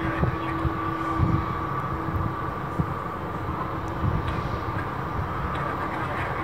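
Jet aircraft engines running steadily, a held whine over a low rumble, with a lower tone fading out about a second in.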